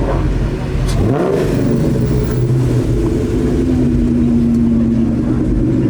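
Car engine revving up about a second in, then running steadily at a higher pitch as the car drives along.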